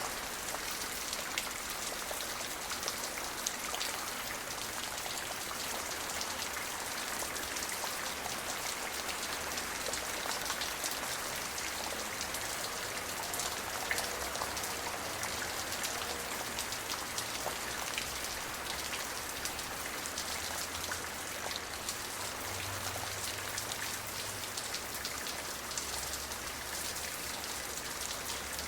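Steady rain falling, many fine drops pattering on a surface, with no thunder.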